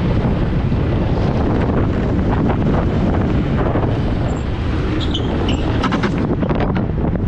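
Wind rushing over the on-board microphone of an engineless gravity race car running downhill, with the rattle and knocks of the car and its tyres on the road surface. A few brief high squeaks come about five seconds in.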